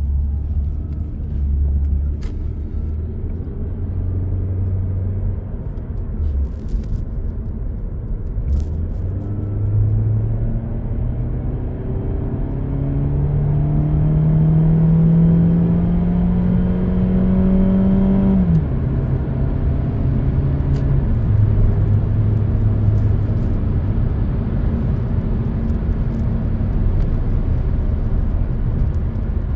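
Toyota Avensis T25 engine running steadily, then its revs climbing slowly for about eight seconds from about ten seconds in, dropping abruptly, and settling back to a steady lower note.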